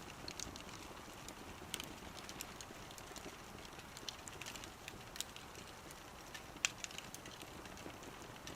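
Small wood fire crackling: scattered sharp pops and snaps over a faint, steady hiss of burning, with the loudest pop about two-thirds of the way in.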